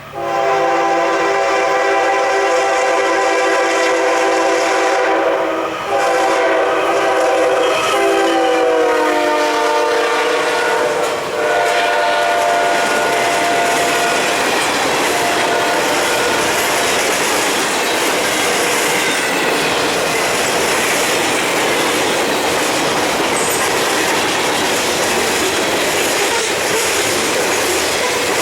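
A diesel locomotive's multi-chime air horn sounds in long blasts as the train approaches and passes, the chord dropping in pitch as the locomotive goes by. The horn then gives way to the steady noise of the train rolling past on the rails.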